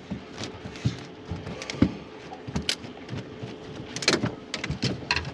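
Irregular knocks and taps on the boat as a freshly landed bream flaps while being handled, with a quick flurry of knocks about four seconds in, over a faint steady hum.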